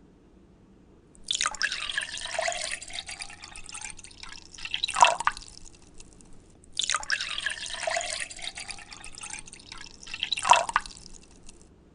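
Water from a bathroom tap splashing into a sink in two similar runs of about four to five seconds each. Each run ends with a louder splash.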